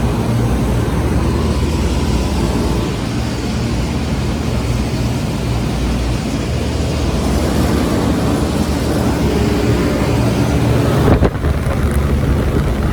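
Large Trane commercial air-conditioning condensing units running, their condenser fans and compressors making a steady noise with a low hum. There is a brief knock about eleven seconds in.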